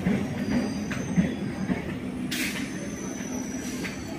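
Express train with an electric locomotive approaching slowly: a steady low rumble, with faint high-pitched wheel squeal over it. A brief hiss comes about two seconds in.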